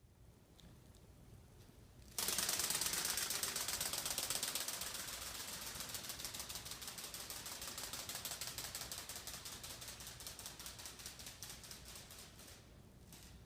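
Rubber-band-powered flapping-wing toy bird in flight: a rapid mechanical clatter of the flapping wings and crank starts suddenly about two seconds in, then gradually fades as the rubber band unwinds, stopping near the end.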